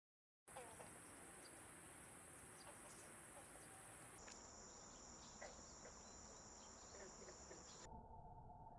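Faint steady insect trilling with scattered short chirps. The trill's pitch drops abruptly about four seconds in and again near the end.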